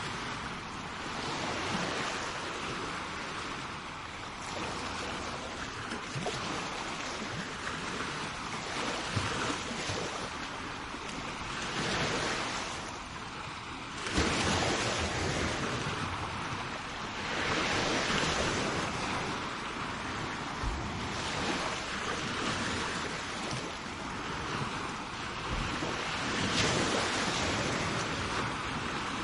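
Sea waves washing onto the shore: a continuous rush of surf that swells and fades every few seconds, with a sudden louder wave about fourteen seconds in.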